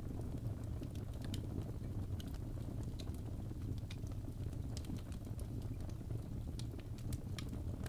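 Fireplace fire crackling: a steady low rumble with irregular sharp crackles and pops.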